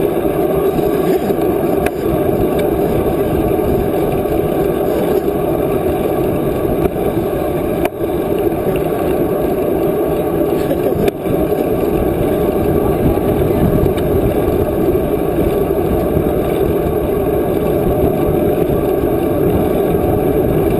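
Steady wind rumble on the microphone during a moving bike ride, loud and even, dipping briefly about eight and eleven seconds in.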